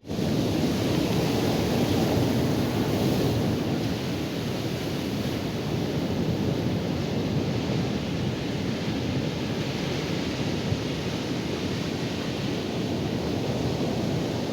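Ocean surf breaking on a sandy beach, a steady rush of noise mixed with wind on the microphone.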